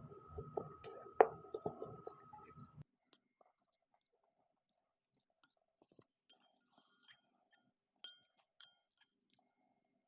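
Close-up eating sounds of spicy noodles being chewed, with small clicks and light clinks of a utensil against a bowl; one sharper click about a second in, then only faint scattered ticks.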